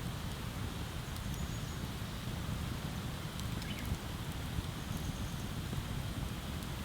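Wood bonfire crackling, with scattered small pops and a couple of sharper ones past the middle, over a steady low rushing rumble.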